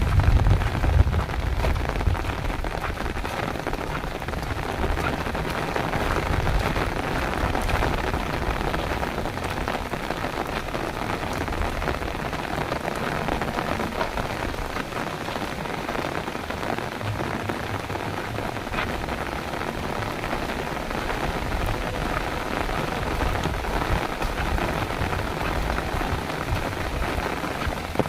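Heavy rain falling steadily, with a low rumble in the first couple of seconds.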